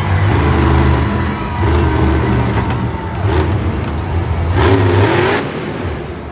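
Monster truck engine revving repeatedly, its pitch rising and falling several times over a steady deep rumble, with a louder surge about five seconds in.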